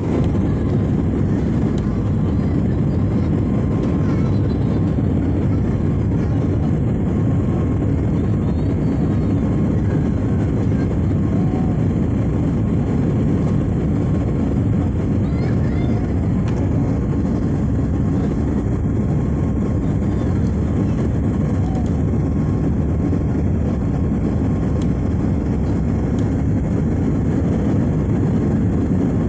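Steady, loud airliner cabin noise: jet engine and airflow rumble heard from inside the passenger cabin, holding an even level with a faint steady hum above it.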